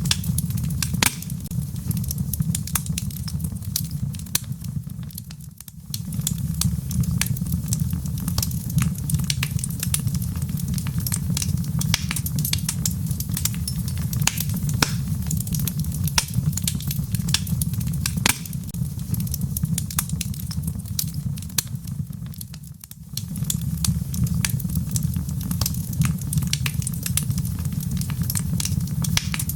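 Wood fire crackling, with frequent sharp pops and snaps over a steady low rumble. The sound dips briefly twice, about five seconds in and again near the twenty-three second mark.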